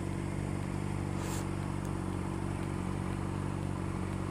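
Motorcycle engine idling steadily, with a short hiss about a second in.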